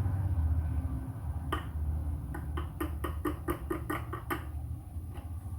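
About a dozen quick, light knocks, roughly four a second, like small taps on a container during food preparation, over a low engine rumble that fades away.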